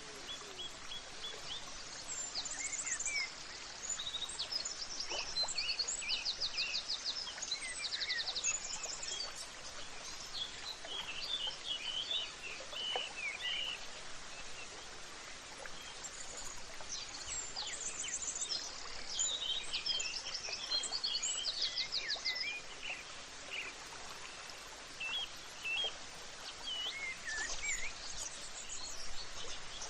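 Several songbirds chirping and trilling, with quick repeated notes and short rising and falling whistles, over a steady background hiss.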